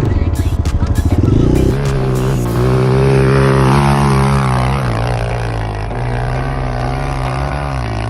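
Enduro motorcycle engine running under load, its pitch rising and falling with the throttle. For about the first second and a half it pulses unevenly, then settles into a steadier drone.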